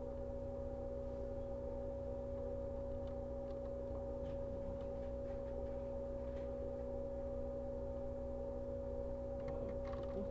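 JR 115-series electric train standing still, its auxiliary equipment giving a steady electrical hum with two held tones and no wheel or motor noise.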